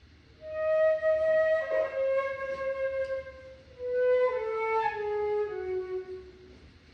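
Flute playing two slow phrases of held notes that step downward in pitch. The second phrase starts about four seconds in, and the playing fades out near the end.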